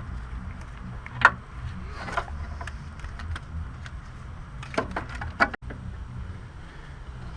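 A handful of short, sharp clicks and knocks from parts being handled during work on a car's wiring, the loudest about a second in and a quick cluster near five seconds, over a steady low hum.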